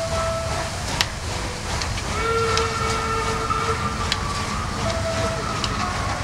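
A train running, with a low rumble and hiss, a few sharp clicks, and thin high tones that come and go, the strongest lasting from about two to five seconds in.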